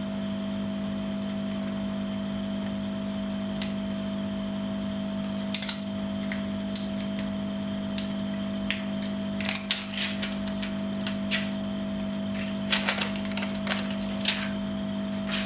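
Irregular small clicks and taps of tools and phone parts being handled on a workbench, thickest in the second half, over a steady electrical hum.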